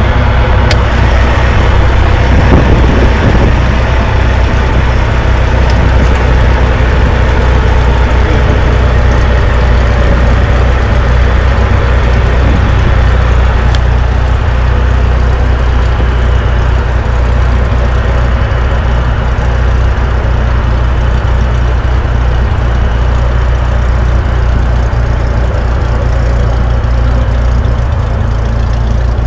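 Cessna 172 light aircraft's piston engine and propeller making a loud, steady drone.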